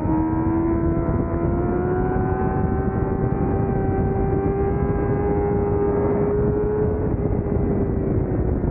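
600cc racing motorcycle engine pulling hard in one gear, its pitch rising slowly for about seven seconds, then dropping near the end as the throttle is rolled off, over a steady rush of wind.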